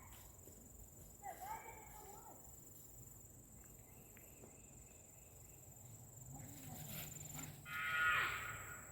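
Quiet outdoor air with a thin, steady high-pitched insect buzz. A faint child's voice comes about a second in, and a louder child's voice with a falling pitch near the end.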